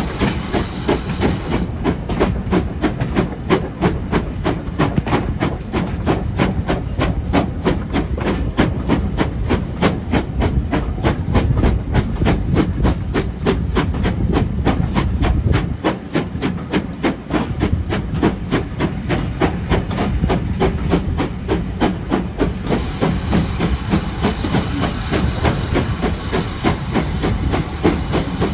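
GWR 5600-class 0-6-2 tank engine 5619 working a train under steam, its exhaust beating in an even, rapid rhythm of about three chuffs a second with a steady hiss of steam.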